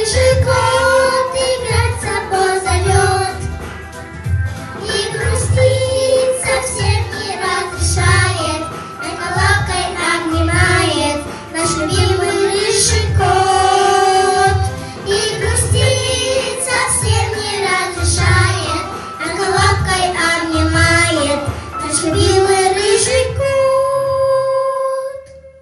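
A trio of young girls singing a children's pop song in unison over a backing track with a steady beat. Near the end they hold one long final note and the music stops.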